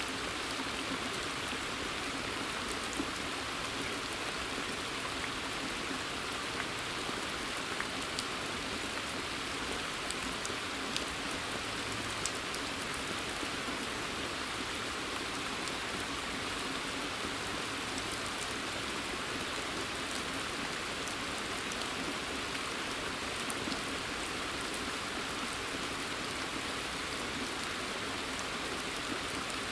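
Steady rain falling on a pond and forest foliage, an even hiss with the sharp ticks of individual drops hitting the water and leaves.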